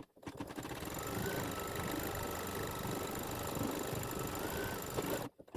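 Embroidery machine stitching a tack-down line, its needle running at steady speed for about five seconds before stopping.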